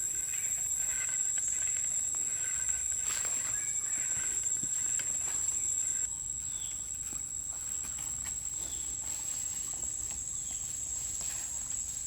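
Steady high-pitched insect trill, typical of crickets, with scattered light clicks and taps.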